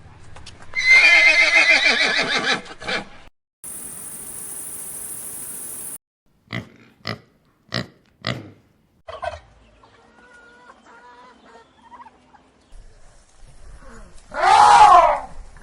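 A string of different animal calls cut one after another. A loud wavering call opens it, followed by a stretch of high hiss, then five short sharp calls, faint quieter sounds, and a second loud call near the end.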